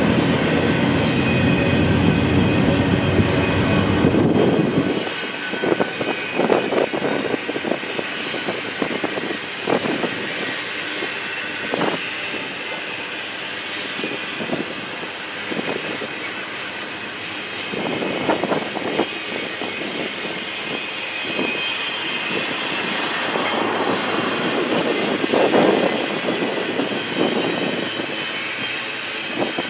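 Freight train rolling past: a heavy low rumble for the first five seconds or so, then the cars' wheels clicking over rail joints in irregular clusters, with a thin high wheel squeal at times.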